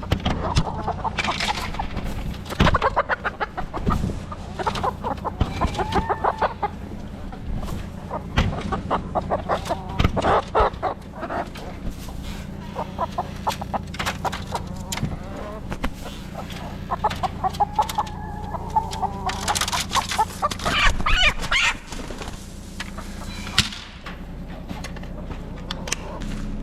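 Domestic hens clucking and squawking repeatedly in short rapid runs, with a few longer calls, over a steady low rumble.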